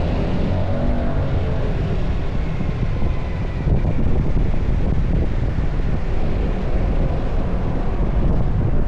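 Wind buffeting the microphone with a steady low rumble, over a vehicle driving along a road.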